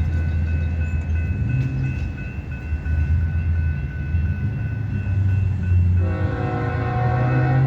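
GE diesel freight locomotives running past with a steady low engine rumble. About six seconds in, a multi-chime locomotive air horn begins blowing loudly.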